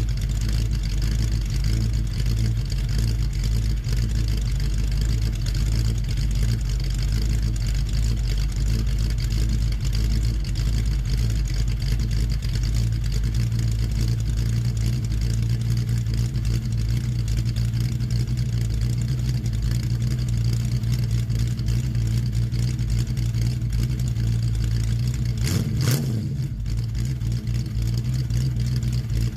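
1970 Ford Mustang fastback's 302 V8 idling steadily as it warms up after a cold start. Near the end there is a brief sharp knock, and the engine sound drops slightly after it.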